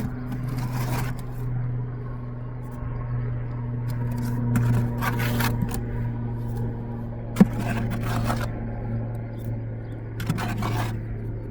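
Steel trowel scraping mortar as it is filled into a joint, four short strokes with a sharp tap about halfway through, over a steady low hum.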